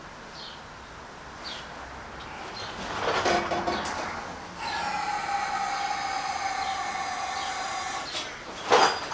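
Ride-on mower engine's electric starter cranking it in one steady whine of about three and a half seconds. The engine does not catch, because fuel has not yet reached the carburettor. A short rushing noise comes about three seconds in and another near the end.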